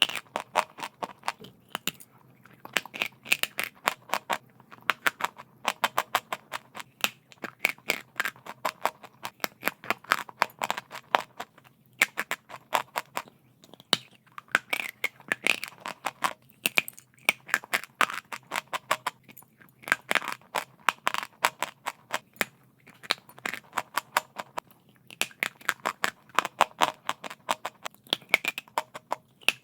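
Chalk being crunched: runs of rapid, sharp crackling crunches in clusters every couple of seconds, with short pauses between them.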